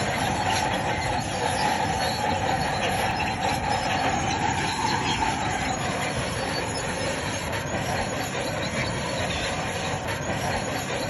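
Crawler bulldozer working, its steel tracks squealing and clanking over the running engine; the squeal is strongest for about the first six seconds, then eases off.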